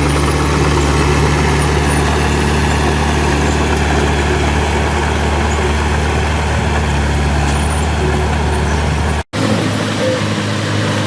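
Heavy diesel engine of earthmoving machinery running steadily. About nine seconds in the sound cuts out for an instant and comes back with a different engine note.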